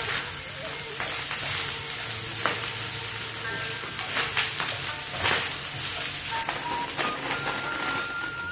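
Fried rice with vegetables sizzling in a small wok over a portable gas stove, stirred and scraped with a wooden spatula in strokes every second or so.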